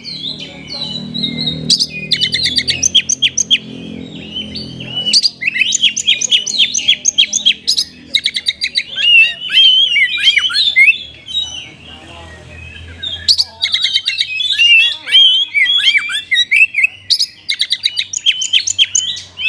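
Oriental magpie-robin (kacer) singing a loud, fast, varied song of chirps, trills and whistles, full of phrases taken from other birds. There is a brief pause about twelve seconds in.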